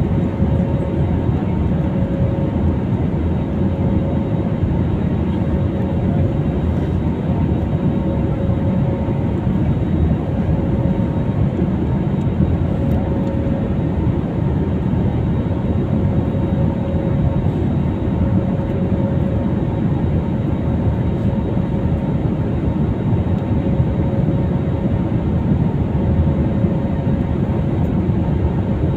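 Steady rumble of jet engines and rushing air heard inside an airliner cabin, with a faint steady hum.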